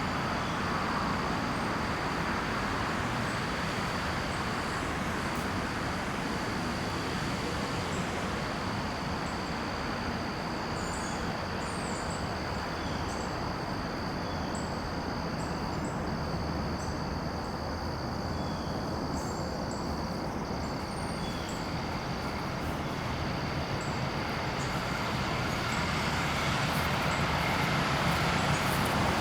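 Outdoor garden ambience: a steady rushing noise that grows louder near the end, under a continuous high buzzing tone broken by short gaps and a few brief chirps.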